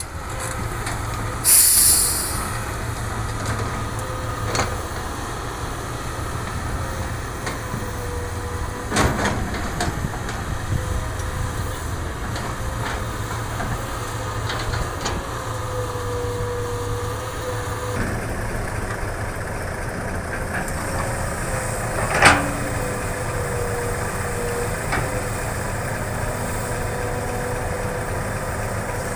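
Hitachi hydraulic excavator's diesel engine running steadily under a wavering hydraulic whine while it works. A short hiss comes near the start, then occasional knocks, the loudest a sharp clank about two-thirds of the way in.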